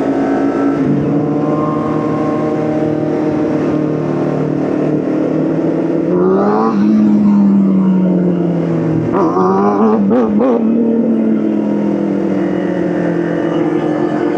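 Motorcycle engine running under way. Its pitch drops at a gear change about a second in, climbs around six seconds in and then falls slowly, with an unsteady wavering of revs near ten seconds.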